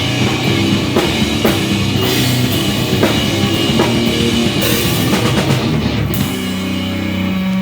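Live rock band playing loud, heavy rock, with a pounding drum kit. About six seconds in the drums stop and a sustained note rings on.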